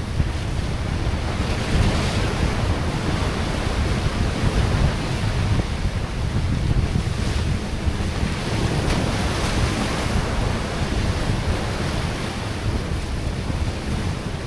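Wind buffeting the microphone over sea waves washing against a rocky shore: a steady low rush with small surges.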